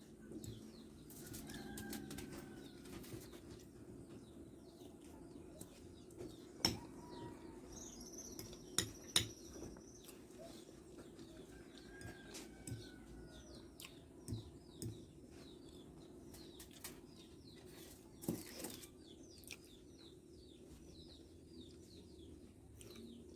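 Quiet eating sounds, chewing with a few sharp clicks of a fork against a plate, over a steady low hum, with faint high chirps in the background.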